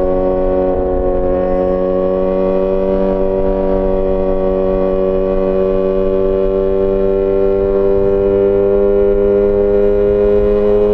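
Yamaha XJ6 S inline-four engine through an aftermarket SC-Project exhaust, running steadily under load as the bike gathers speed, its pitch rising slowly and evenly.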